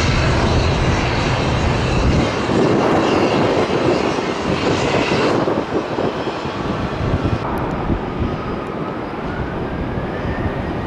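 Airliner jet engines running loud. The high end of the sound drops away abruptly about five seconds in and again about two seconds later, then a faint whine rises steadily through the last few seconds.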